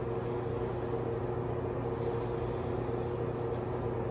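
Steady background hum with a couple of constant tones held through it, unchanging throughout.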